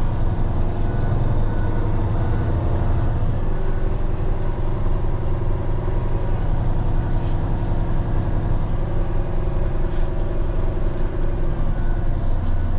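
Diesel engine of a Peterbilt 389X heavy rotator wrecker running steadily as the truck is driven, a constant low engine note.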